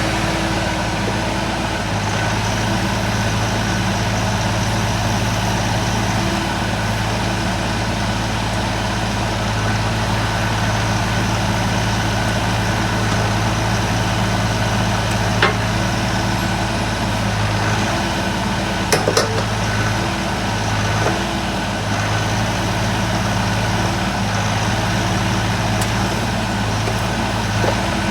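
Doosan DX50-7 mini excavator's diesel engine running steadily while its hydraulics are worked through test operations, the engine note dipping and recovering at times under load. A few sharp metallic knocks stand out about halfway through and again a few seconds later.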